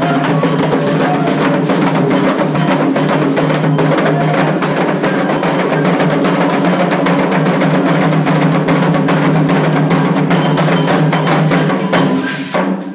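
Candomblé ceremonial drumming on atabaque hand drums, a dense, fast, steady rhythm with struck accents, fading near the end.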